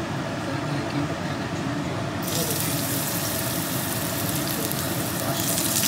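Hot oil in a wok starting to sizzle as slivered ginger and garlic go in: a steady hiss that begins suddenly about two seconds in, over a steady low background noise.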